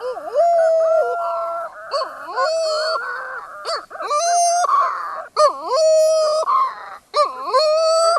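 Flesh-footed shearwater calling: a series of about six drawn-out, honking calls. Each dips in pitch and then rises to a held note, with short pauses between them.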